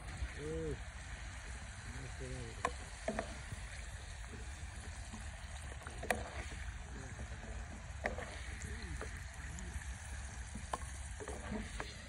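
Potatoes deep-frying in hot oil in a clay pot, a steady sizzle. A wooden spoon knocks against the clay pot and bowl a handful of times as fried pieces are lifted out.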